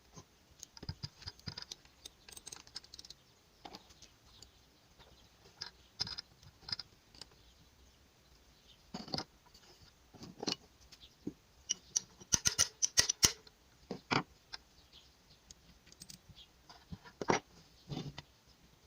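Scattered clicks and clinks of metal engine parts and hand tools being handled during motorcycle gearbox disassembly, with a quick run of sharp clicks about twelve seconds in and a few heavier knocks.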